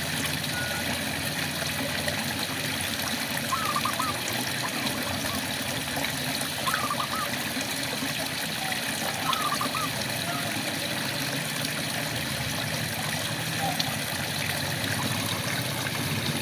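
Steady rain falling, with a frog calling over it: short bursts of a few quick wavering notes, repeated every few seconds.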